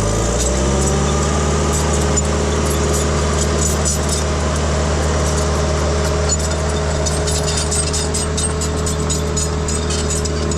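Diesel engine of a small 450 crawler dozer running steadily under load. It speeds up right at the start, with frequent clanks and rattles from the tracks as it tracks in and packs the fill.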